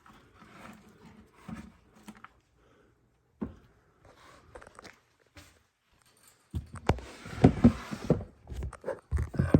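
Faint scattered clicks for several seconds, then, about two-thirds of the way in, a dense run of loud knocks, clatter and rustling from handling.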